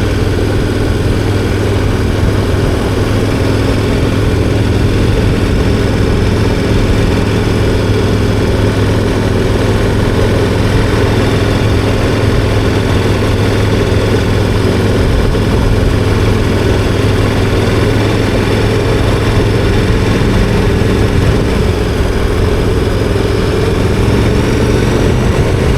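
KTM 1290 Super Adventure R's V-twin engine running at steady revs while riding, a constant engine note.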